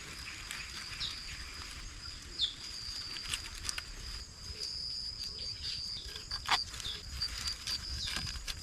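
Rainforest ambience: an insect's steady high-pitched drone, a couple of short falling bird chirps in the first few seconds, and scattered light clicks and knocks, the loudest about six and a half seconds in.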